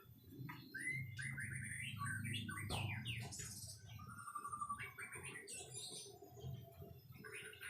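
White-rumped shama singing a varied run of whistled and warbled phrases, thickest from about one to three seconds in, with a low rumble underneath.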